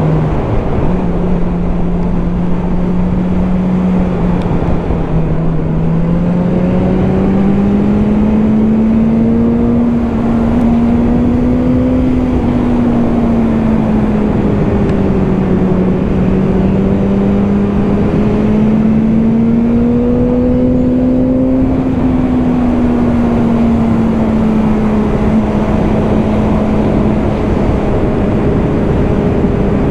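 Motorcycle engine running while riding, its pitch rising and falling slowly a few times with engine speed, over a steady rush of wind and road noise.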